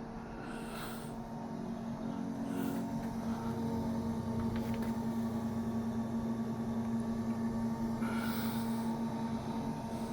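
Small electric flush pump humming steadily as it circulates descaling solution through a tankless water heater's heat exchanger. A few short hissing spurts come through about a second in, near three seconds, and again near the end.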